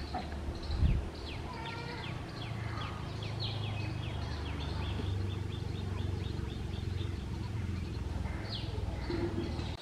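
Birds chirping, a run of short downward-sliding notes repeated many times, over a steady low rumble, with a single thump about a second in.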